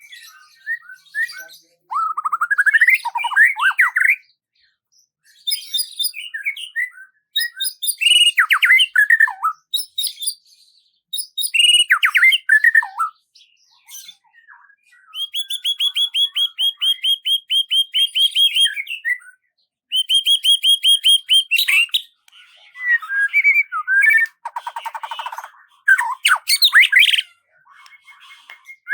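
Songbirds singing in a string of varied phrases: sweeping whistled chirps and short warbles, broken by brief pauses, with a fast, even trill of about six repeated notes a second in the middle.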